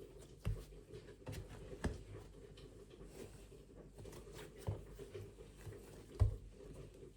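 Scattered soft knocks and light taps of things being handled, the loudest about half a second in, near two seconds and just after six seconds, over a steady low hum.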